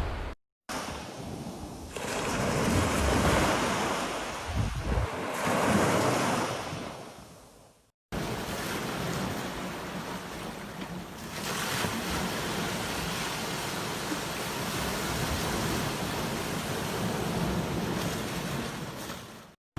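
Sea waves breaking and washing up on a beach, swelling and fading, in separate stretches split by brief silent cuts about half a second in and near the middle.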